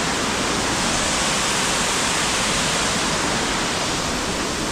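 Waterfall pouring: a loud, steady roar of falling water.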